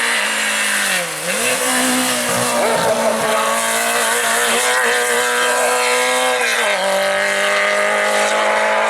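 Race car engine running hard on a hill-climb run, its pitch dropping and climbing again at gear changes about a second in and near seven seconds.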